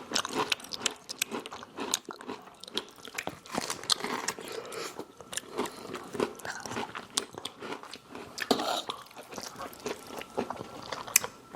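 Close-miked eating sounds: chewing with frequent sharp, irregular crunches of crispy food.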